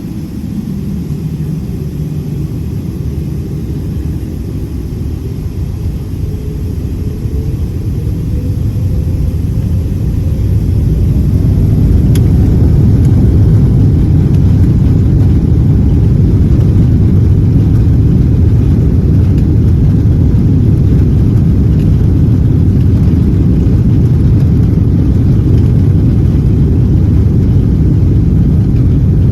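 Boeing 777 jet engines spooling up to takeoff thrust during the takeoff roll, heard inside the cabin. A deep rumble grows louder over roughly the first ten seconds with a rising whine, then holds steady and loud.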